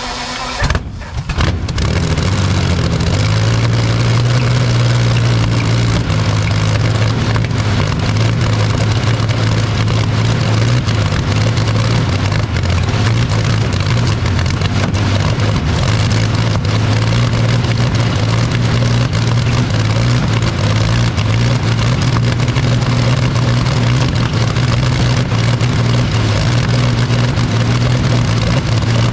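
Rolls-Royce Meteor V12 petrol engine running after a successful start. About a second in there is a sharp pop and a short dip, then it settles into a loud, steady, deep drone.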